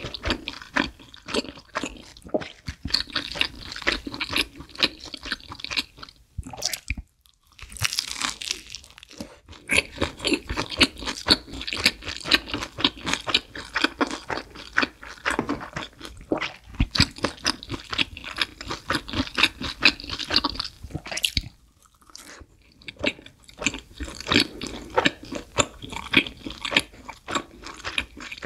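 A person chewing thick-crust pizza loaded with shrimp and bacon, close to the microphone: quick, wet chewing with crunchy bites, pausing briefly about seven seconds in and again about twenty-two seconds in.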